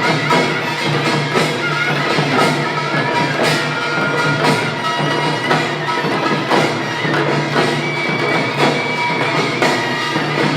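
Korean pungmul band playing: drums and gongs beating a steady rhythm, with strong beats about once a second, under a held, reedy wind melody.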